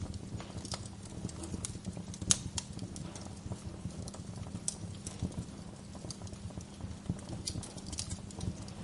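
Wood fire crackling in a fireplace: irregular sharp pops and snaps over a low steady rumble, with one louder pop a little over two seconds in.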